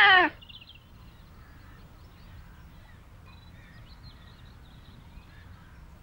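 A loud bird squawk cuts off about a third of a second in, followed by faint, scattered bird chirps in the background.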